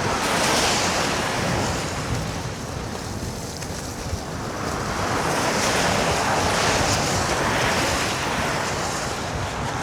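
Wind rushing over the microphone of a moving electric scooter, mixed with the hiss of its tyres through slush. The noise dips a few seconds in, then builds again.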